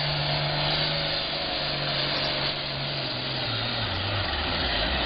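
John Deere 7810 pulling tractor's turbocharged diesel engine running hard under load with a loud, steady drone and hiss. About three seconds in, its pitch falls as the revs drop.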